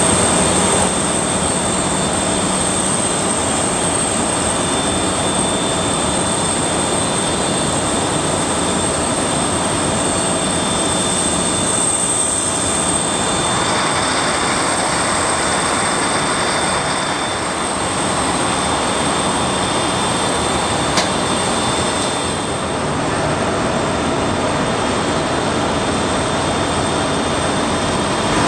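Turbofan engines of an Antonov An-124-100 (Lotarev D-18T) running steadily, a continuous rush with high-pitched whines; about halfway through the rushing grows fuller.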